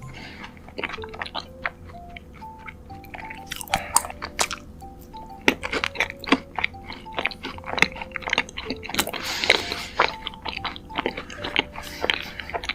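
Close-miked chewing and crunching of sweets, with many sharp crunches and a few wetter smacking bursts, over soft background music playing a simple melody.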